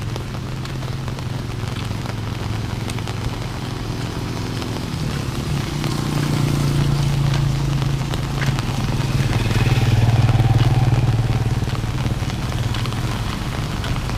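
A motor vehicle's engine, motorcycle-like, running with a steady low hum that swells twice, about six seconds in and again about ten seconds in, over a patter of rain.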